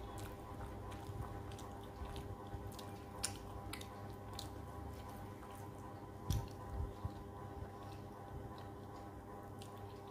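Close-up eating sounds of someone chewing rice and fish curry taken by hand: wet, squishy chewing with scattered sharp mouth clicks and smacks, the loudest about six seconds in, over a steady low hum.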